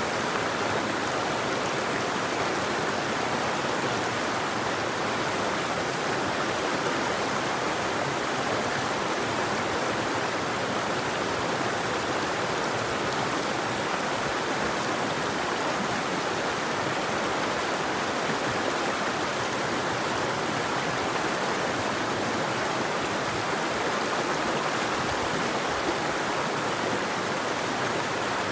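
River water flowing, a steady, unbroken rush with no bird calls.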